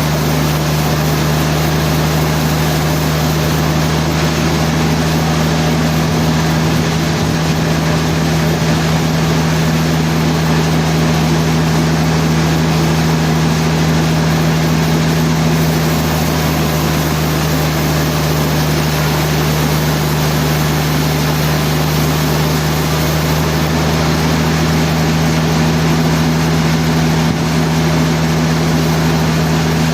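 Sawmill machinery running steadily: a constant loud hum with a noisy wash over it, unchanging throughout.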